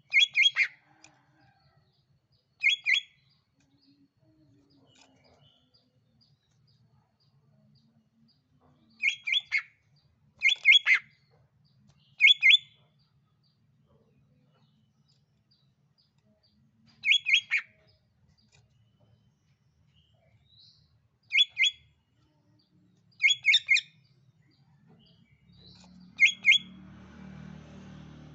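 Green leafbird (cucak ijo) calls: short phrases of two or three sharp, quick notes, repeated every few seconds with pauses between. A lure recording used to set off a cucak ijo that has stopped singing. A faint low rumble comes in near the end.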